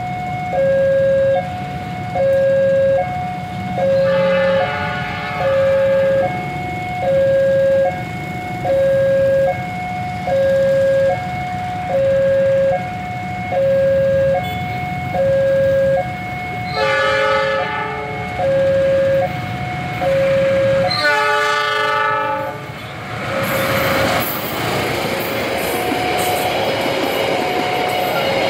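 A level-crossing warning alarm repeats a two-tone ding-dong while an approaching locomotive sounds its horn three times, faint about four seconds in, then louder near the middle and again about three quarters of the way through. A passenger train then rushes past with loud wheel and rail noise to the end.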